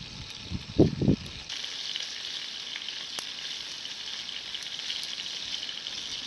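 Meat sizzling on a grill over a campfire, a steady hiss that grows stronger about one and a half seconds in.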